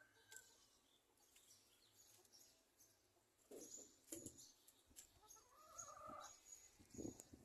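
Faint bird calls: high chirps throughout and a few lower clucking calls of chickens about four seconds in and near the end, with scattered light ticks.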